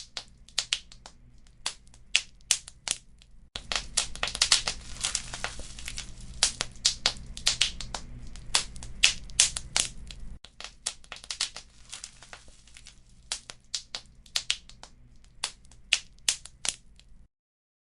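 Wood fire in a fireplace crackling, with irregular sharp pops and snaps over a faint low rumble. The pops come thickest and loudest for several seconds in the middle. The sound cuts out completely for about half a second just before the end.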